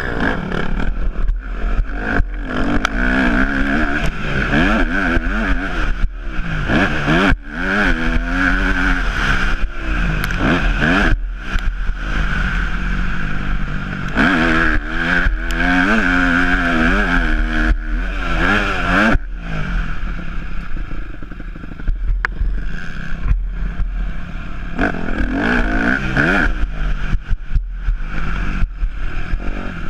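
Yamaha YZ250F four-stroke single-cylinder motocross engine revving up and down over and over as the bike is ridden hard, with clattering knocks throughout.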